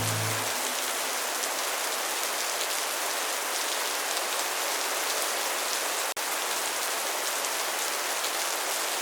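Steady rain falling on leaves by the eaves, a dense patter of drops. The sound drops out for an instant about six seconds in.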